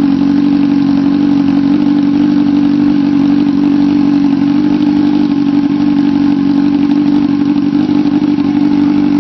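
Motorcycle engine running steadily at one unchanging pitch, with no revving.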